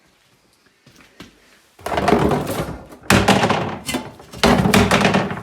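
Three loud, heavy thunks, each dying away in under a second and spaced about a second apart.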